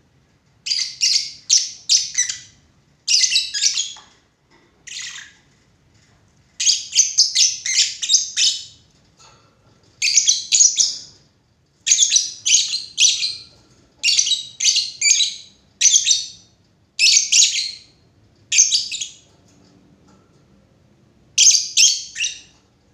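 Lovebird calling: bouts of rapid, high-pitched chirps, each bout a second or two long, about eleven of them with short pauses between.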